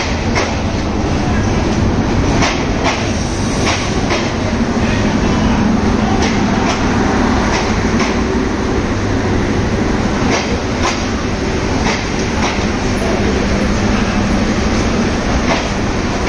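Passenger train coaches rolling past, a steady rumble with repeated sharp clicks of the wheels on the track.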